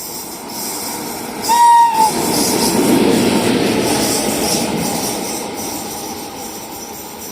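A passing train sounds one short horn blast about a second and a half in, then rushes by with a swelling wheel-and-air noise that slowly fades.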